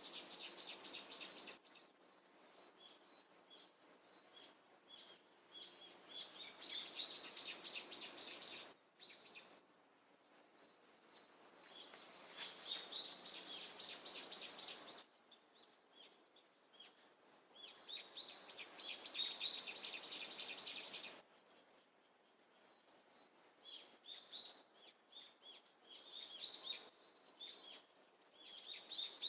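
A songbird singing loud bouts of rapid, evenly repeated high notes, each bout lasting a few seconds and recurring about every six seconds, with fainter chirps between the bouts.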